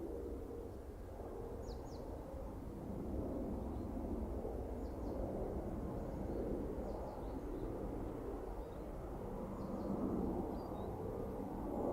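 Low, steady rumble of a KiHa 283 series diesel express train running, growing louder about three seconds in. Faint short bird chirps sound over it every second or two.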